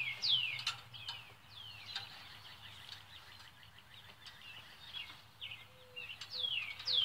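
A songbird singing a series of quick whistled notes, each sliding down in pitch. A couple come at the start, fainter ones follow, and a clearer run comes near the end.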